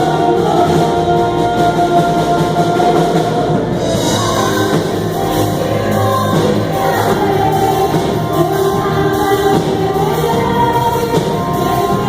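Christian worship song: voices singing together over instrumental accompaniment. The sound fills out in the upper range about four seconds in.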